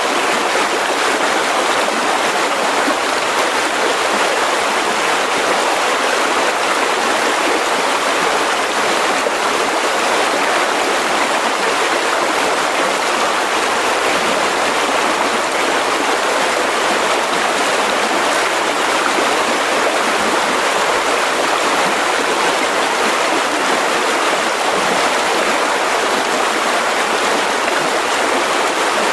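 A mountain river rushing over rocks: a steady, even roar of flowing water that does not change.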